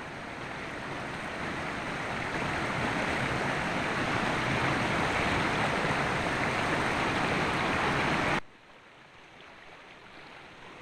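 Rushing river water, a steady rushing hiss that grows a little louder over the first few seconds. It cuts off abruptly about eight seconds in, leaving a much quieter water sound.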